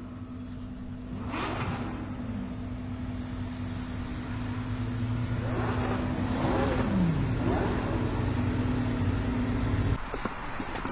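BMW M5 F10's twin-turbo V8 with catless downpipes running with a steady note, its revs rising and falling a couple of times, and the sound getting louder. It cuts off abruptly near the end.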